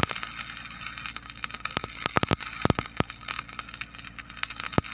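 Electric arc welding on a steel backhoe bucket: the arc crackles with rapid, irregular pops over a steady hiss.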